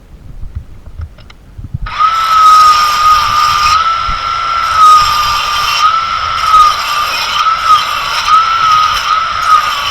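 A power tool starts about two seconds in and runs steadily with a high, slightly wavering whine.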